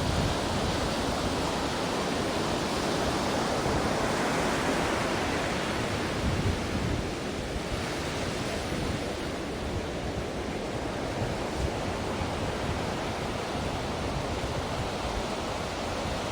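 Ocean surf: a continuous rush of breaking waves, a little fuller in the first half and easing slightly about halfway through.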